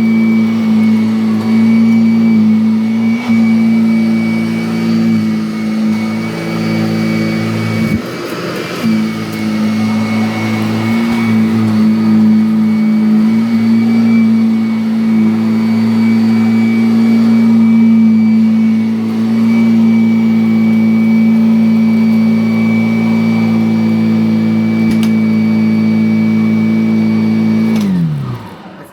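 Upright vacuum cleaner motor running steadily with a high whine, then switched off near the end and winding down in pitch.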